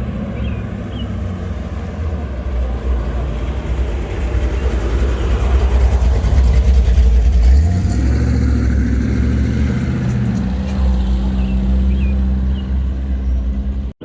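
A car engine running at low speed as a vehicle rolls in, getting louder toward the middle and changing pitch about eight seconds in.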